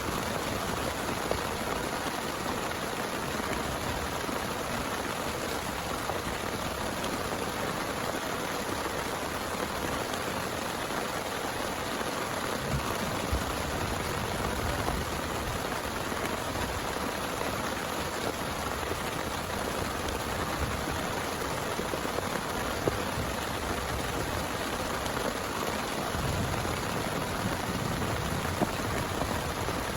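Heavy rain pouring steadily, with a few sharp louder drop hits along the way.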